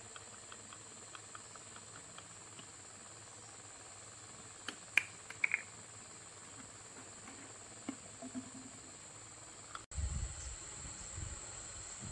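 Faint, steady high-pitched insect chirring, with a few light ticks and clicks about five seconds in. A low rumble comes in near the end.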